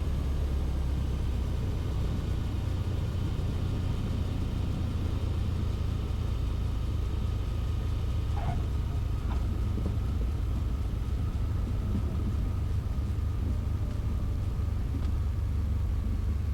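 Steady low drone of a Mooney M20E's four-cylinder Lycoming engine and airflow in the cockpit, with the landing gear down on approach. A faint steady high whine runs under it.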